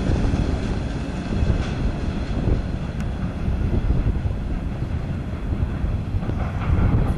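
CSX freight train's covered hopper cars rolling away along the track, a steady low rumble of wheels on rails.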